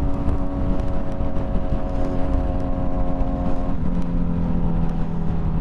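Motorcycle engine running at a steady cruise over wind rush on the microphone; about four seconds in, its note drops to a lower steady pitch.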